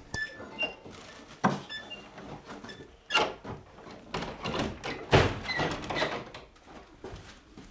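A few knocks and thumps with some short high squeaks, the loudest thumps about three and five seconds in.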